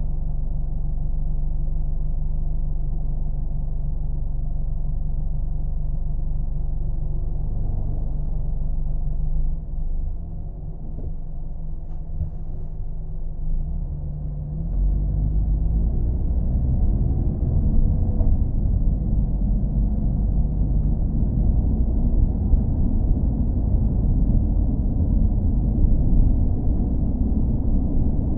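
Car engine running with a low rumble; it eases off for a few seconds near the middle, then picks up with a rising pitch about halfway through and runs louder.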